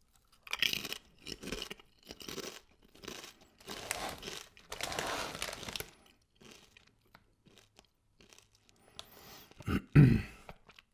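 Close-up crunching and chewing of a mouthful of Lorenz Crunchips potato chips, in repeated crunches over the first six seconds that then fade to quieter chewing. About ten seconds in there is a short loud thump with a rustle.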